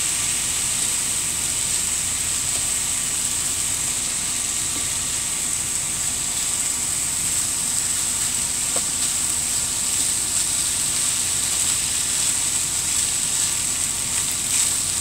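Fried rice seasoned with soy sauce sizzling in a hot skillet on an electric burner as it is stirred with a spatula, over a steady low rumble.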